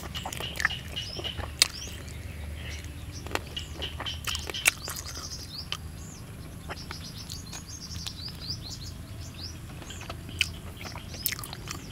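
Close-up chewing of roasted field rat, with sharp wet mouth clicks and smacks now and then. Small birds chirp rapidly and repeatedly behind it, over a steady low background hum.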